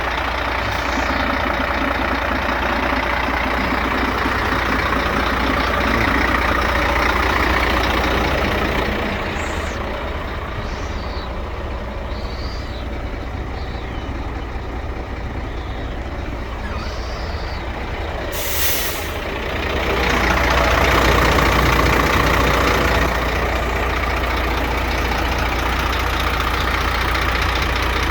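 Scania P380 dump truck's diesel engine running steadily, with one short, sharp air hiss about two-thirds of the way through, typical of the air brake system venting. A few faint high squeaks come and go in the middle.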